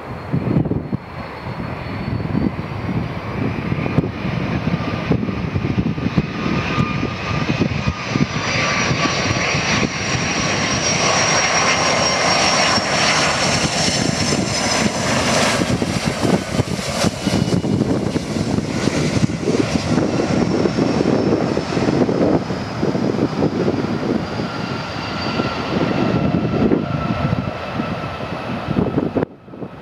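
Boeing 757-200's Rolls-Royce RB211 turbofan engines whining over a steady jet roar as the airliner comes in to land. The whine tones slowly fall in pitch, and the sound is loudest around the middle.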